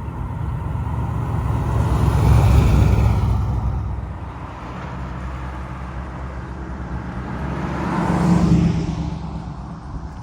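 Car engines driving past, swelling twice: a first vehicle loudest about two to three seconds in, a second with a low engine note about eight seconds in.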